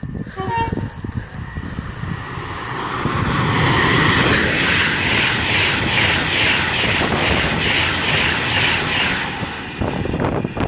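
Class 390 Pendolino electric train approaching at speed and running through the station, its rush of wheels and air building over the first few seconds and staying loud with a rapid, even pulsing as it nears and passes close.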